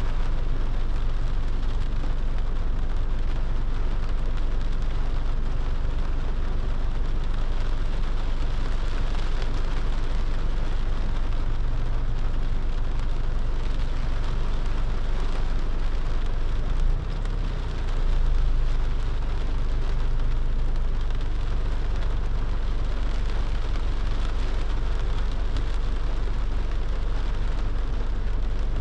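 Rain falling on a moving car, an even hiss over a steady low rumble of road and engine; the rumble drops briefly about seventeen seconds in.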